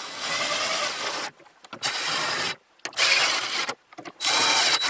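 The rooftop air conditioner's mounting bolts being tightened with a hand tool, a rapid mechanical grinding-clicking in four runs of about a second each with short pauses between.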